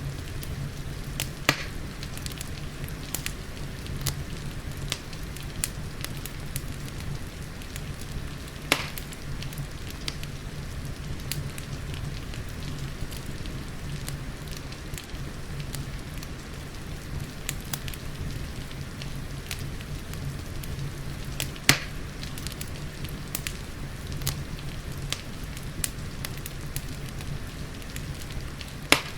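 Wood fire crackling with scattered snaps and a few loud pops, over a steady bed of rain and a low rumble.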